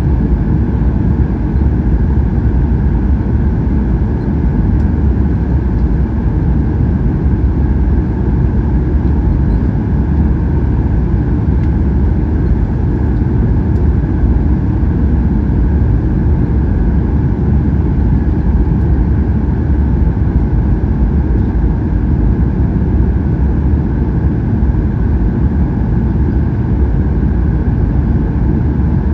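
Steady cabin noise of a Boeing 737-800 in flight: its CFM56 turbofan engines and the airflow over the fuselage make an even, unbroken roar, heaviest in the low end.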